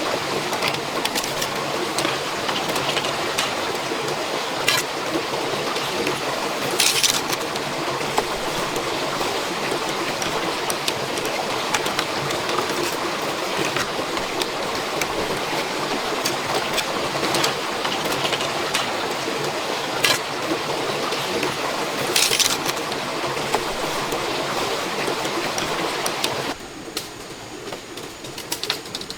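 Steady heavy rain hiss, with scattered taps and knocks and a couple of louder brief rustles. It drops in level about three seconds before the end.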